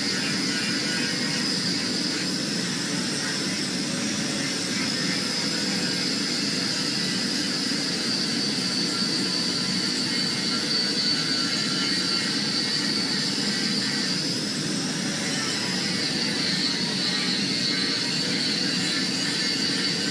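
Angle grinder running steadily against a steel billet, its high whine dipping and recovering briefly about two-thirds of the way through as the load changes.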